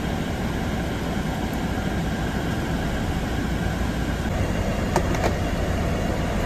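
Steady mechanical running noise, like a motor or fan, with a couple of faint clicks about five seconds in.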